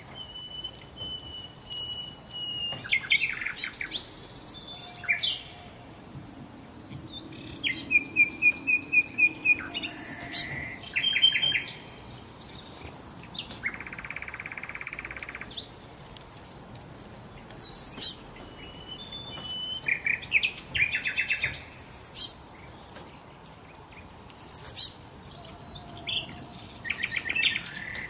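Several songbirds singing and calling: bursts of rapid high chirping trills and short chirps come and go throughout, several different call patterns overlapping, over a faint steady high tone.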